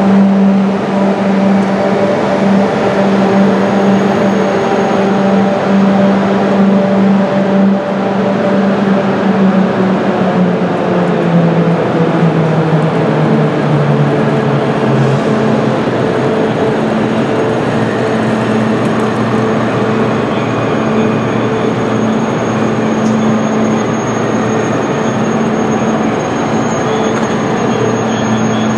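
Passenger train's engine running at a station platform: a steady hum whose pitch falls between about eight and fifteen seconds in, then holds level.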